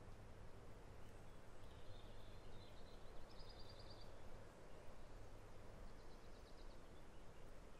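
Faint, steady outdoor background noise with a small bird calling: a quick run of high chirps about three seconds in, and another shorter run about six seconds in.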